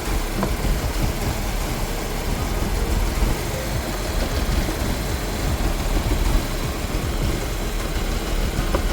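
Kia Morning (JA) 1.0-litre Kappa MPI three-cylinder engine idling with a steady, uneven low rumble, recorded to show the engine vibration at about 80,000 km.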